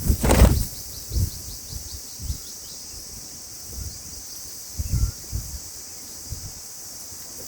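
A bird giving a rapid series of short high chirps for the first couple of seconds over a steady high insect hiss, with a few dull low thumps, the loudest just after the start.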